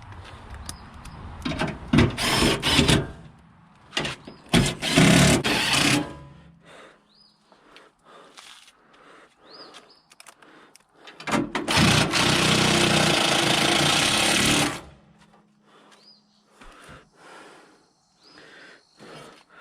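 A handheld power tool driving fasteners on the car's front end: two short runs in the first six seconds, then one steady run of about three and a half seconds near the middle, with clicks and knocks of parts being handled in between.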